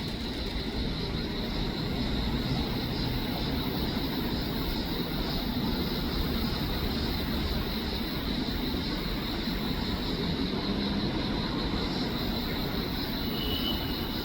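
Steady outdoor rumble, heaviest in the low range, with a steady high hum over it and no breaks.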